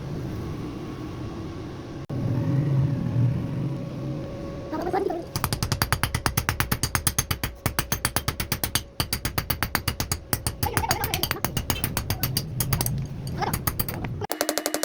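A machine running steadily, then about five seconds in a fast, even rattle of about eight knocks a second, typical of a spinning part clattering during a friction-welding attempt on two bolts.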